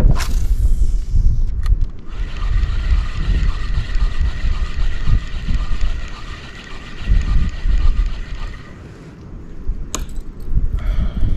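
Wind buffeting the microphone in heavy, uneven gusts. About two seconds in, a steady whirring hiss with a faint high whine starts and runs for about seven seconds before stopping.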